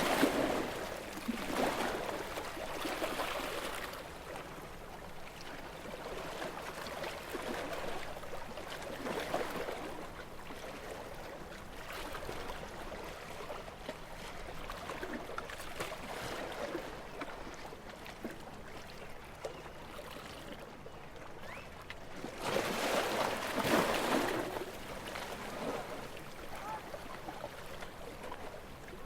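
Gentle sea waves washing in and draining back on a calm sea, rising and fading every several seconds. The biggest wave comes about three-quarters of the way through.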